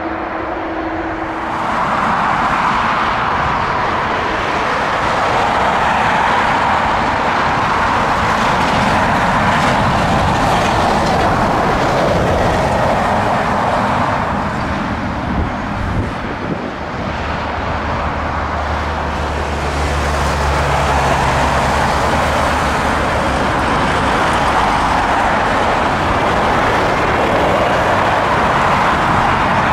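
Boeing 757 jet engines running at length, a steady loud rush that swells and eases slowly. A low steady hum joins it for a few seconds midway.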